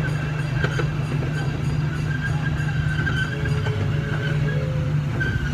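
Zoo ride train running steadily, heard from its open passenger car: a constant low rumble of the engine and wheels.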